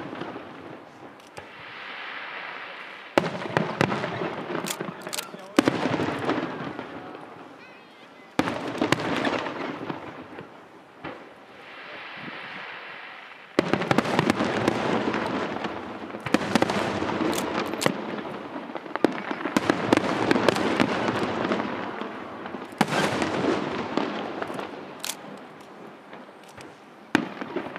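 Aerial fireworks show: shells bursting overhead with sharp bangs, about seven in all, each followed by a few seconds of crackling and rumbling that fades away before the next.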